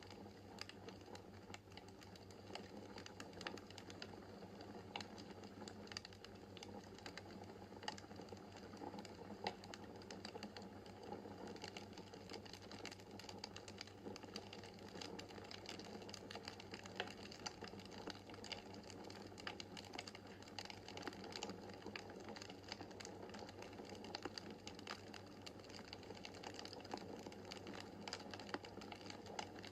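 Wood fire crackling in a fireplace: a dense, irregular run of small clicks and snaps with a few sharper pops, over a steady low hum.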